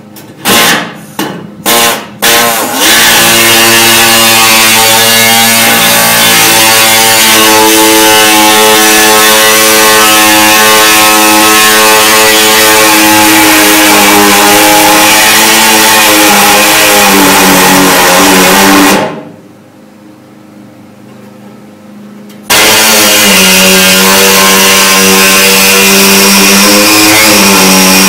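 Air-powered cutting tool cutting slots in a car's steel tail light panel. It blips briefly three times, then runs steadily at high speed with its pitch sagging now and then as it bites into the metal. It stops for about three seconds and starts again.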